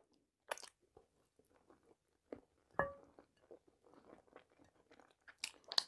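Faint chewing and mouth smacks of a person eating fried chicken leg with her fingers, heard close on a clip-on microphone, with a few louder smacks and clicks near the end.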